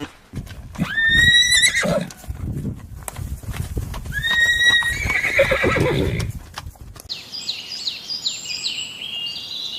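A horse neighing twice, each call rising and then held, over the clip-clop of hooves. About seven seconds in this gives way to a run of high, repeated chirps.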